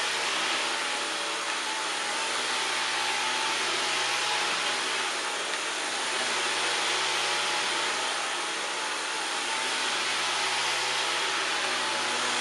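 Dyson V15 Detect Absolute cordless stick vacuum running in its auto power mode while cleaning the floor: a steady rushing hiss with a high motor whine, swelling slightly in level now and then.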